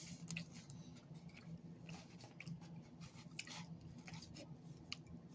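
Faint chewing of a mouthful of cheesy flatbread pizza: scattered small, sharp mouth clicks over a low steady hum.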